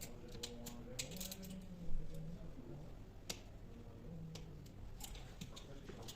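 Hand-tool work on a wooden window's glazing: cutting out the sealant around the glass unit, heard as scattered clicks and scrapes with one louder knock about two seconds in.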